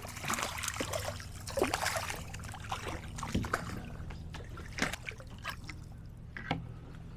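Water trickling and lightly splashing around a kayak, with a few small knocks scattered through.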